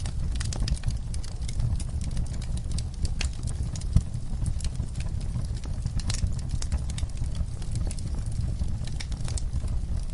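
Wood fire crackling: irregular sharp pops and snaps over a low steady rumble, with one louder pop about four seconds in.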